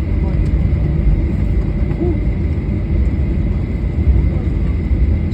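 Steady low rumble inside an airliner cabin on the ground after landing, with a faint steady high whine.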